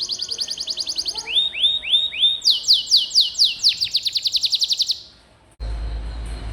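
Domestic canary singing: a fast high trill, then a few slower rising notes and a louder run of quick falling sweeps. The song stops about five seconds in, and a low steady hum starts shortly after.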